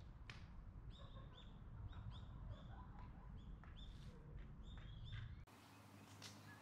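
Small birds calling: a quick series of short, high chirping calls, repeated many times, over a faint low rumble. The sound changes abruptly near the end.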